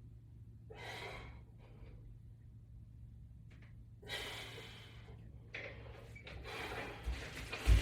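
A person breathing hard while exercising, with forceful exhales about a second in and again from about four seconds in, coming closer together toward the end. A low thump sounds just before the end.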